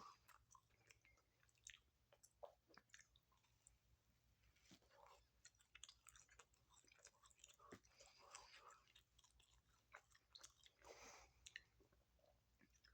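Faint, irregular mouth sounds of a person chewing a sandwich close to the microphone: small smacks and clicks.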